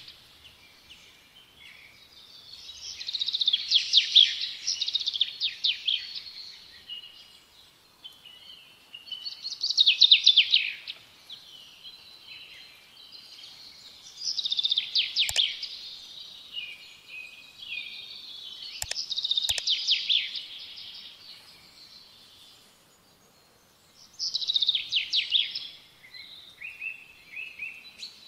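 Songbird singing in repeated phrases of rapid, high chirping notes, one every few seconds, with a few sharp clicks around the middle.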